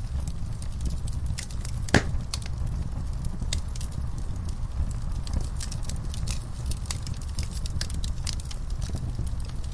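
Wood fire burning in a fireplace: a steady low rumble of flames with frequent small crackles and snaps from the logs, and one loud pop about two seconds in.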